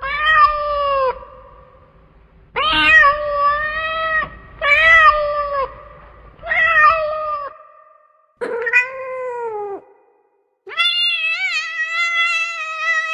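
A domestic cat meowing repeatedly: five separate meows of about a second each, then a long drawn-out meow starting near the end.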